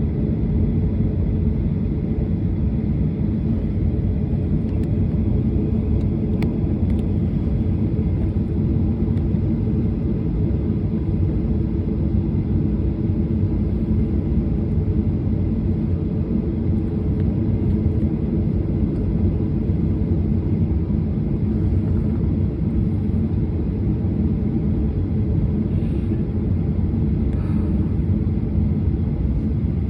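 Steady low rumble inside an airliner's cabin on the ground before takeoff, with the jet engines at idle.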